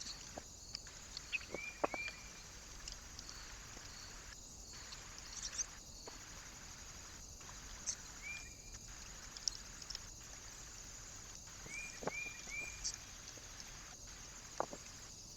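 Faint short chirps from small birds, heard in twos and threes a few times, with occasional sharp taps, over a steady high hiss.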